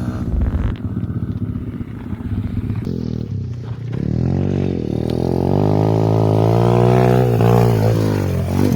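Pit bike engine running, then revving up about three seconds in and holding high revs through most of the rest, loudest near the end.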